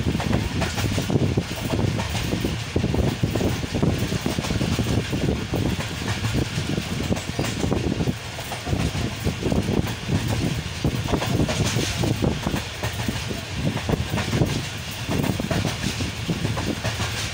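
Passenger train carriage running at speed on the track, heard from an open window: a steady noisy rumble of wheels and rails with irregular rattling knocks.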